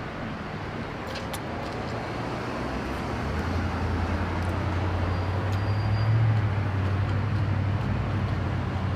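A motor vehicle passing nearby: a low engine hum that swells from about three seconds in and stays up, over a steady background of road traffic.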